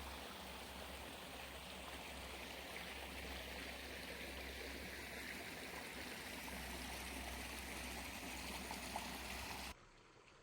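Stream water flowing steadily, with a low rumble beneath; it cuts off abruptly near the end.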